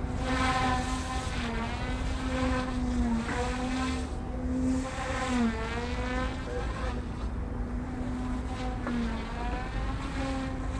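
OMP Hobby M1 Mini electric RC helicopter's direct-drive motor and rotor whine, a steady high buzz at idle up 2 headspeed whose pitch dips briefly several times during manoeuvres. Wind rumbles on the microphone underneath.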